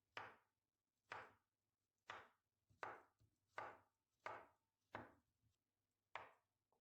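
Knife chopping on a cutting board: eight slow, evenly paced strokes, about one a second.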